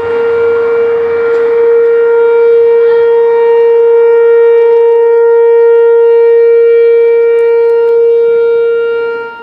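Outdoor tornado warning siren sounding one loud, steady held tone, which falls away near the end.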